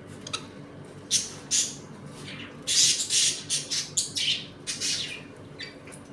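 A flock of budgerigars calling: a quick series of short, sharp chirps, thickest around the middle.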